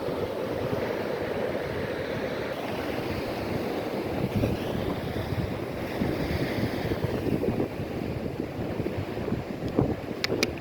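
Wind buffeting the microphone over the wash of sea waves, a steady rushing noise, with a few sharp clicks right at the end.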